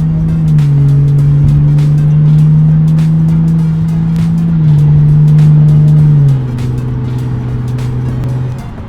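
Lexus GS 350's 3.5-litre V6 droning through its Borla Type S exhaust while cruising, heard inside the cabin. The pitch steps down about half a second in, back up after about four and a half seconds, and down again past six seconds, where it also gets quieter.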